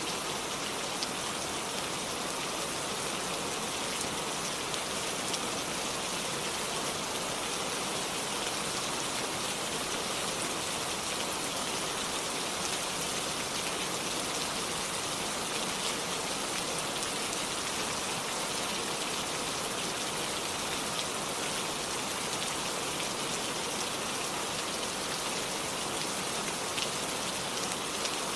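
Steady, even rainfall with a few faint scattered ticks of drops.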